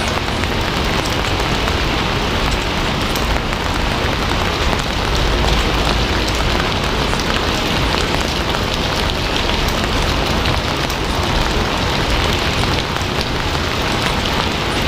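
Steady, heavy rain: a constant, even hiss of falling rain and drops, with no letup.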